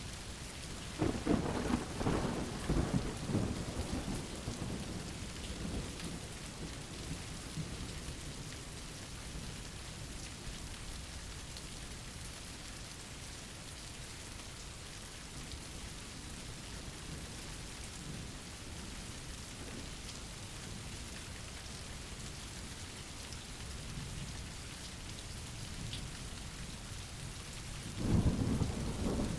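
Steady rain falling, with a rumble of thunder about a second in that rolls on and fades over several seconds, and another thunder rumble starting near the end.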